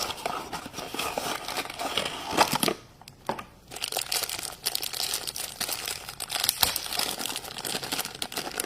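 Plastic or foil wrapping of a surprise toy package crinkling and tearing as it is unwrapped by hand, with a brief pause about three seconds in.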